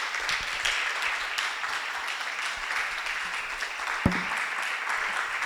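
Audience applauding steadily in a lecture hall, with one louder knock about four seconds in.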